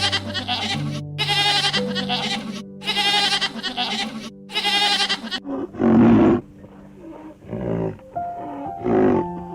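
Bleating: four quavering calls in a row over soft, steady background music. About halfway through they give way to louder, deeper animal calls.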